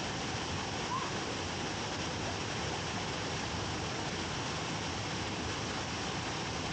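Sgwd yr Eira waterfall pouring, a steady, even rush of falling water.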